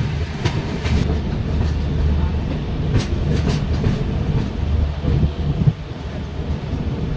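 Train running on the rails: a steady low rumble with sharp clicks of wheels passing over rail joints.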